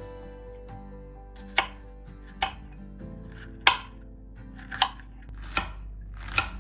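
Kitchen knife slicing through a red onion: six chops about a second apart, beginning about a second and a half in.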